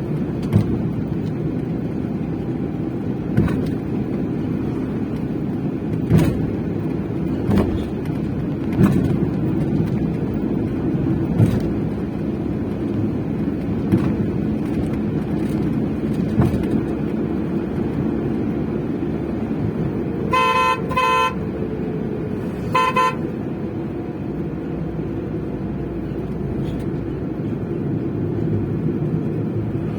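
Maruti Suzuki Eeco van driving, a steady low engine and road noise with occasional sharp knocks. About twenty seconds in, a car horn toots twice in quick succession, then once more about two seconds later.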